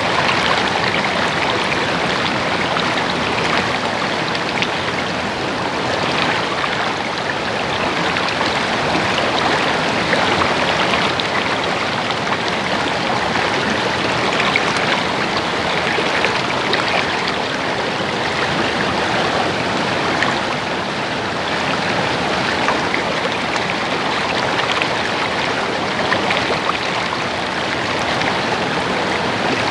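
Shallow stream water babbling and gurgling over rocks, steady throughout.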